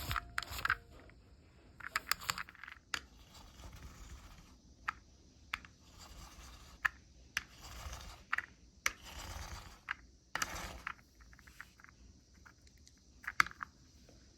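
Stationery being unpacked and handled: packaging rustling in short bouts, with scattered clicks and taps as items are picked up and set down.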